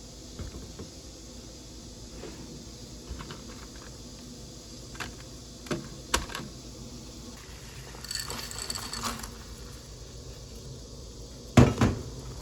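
Light clicks and taps of kitchen utensils and dishes being handled, with a short run of clinks about two-thirds of the way in and a sharp double knock near the end.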